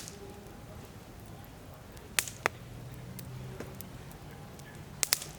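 Wood campfire crackling, with a few sharp pops: two about two seconds in and another pair near the end.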